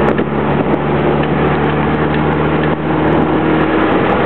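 Subaru Legacy's flat-four engine running hard at steady revs, with road and wind noise; the engine note changes about two and a half seconds in.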